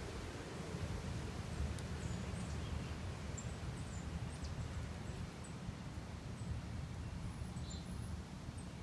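Small songbirds giving brief, faint, high-pitched chirps and call notes, scattered through the whole stretch, over a steady low rumble of outdoor background noise.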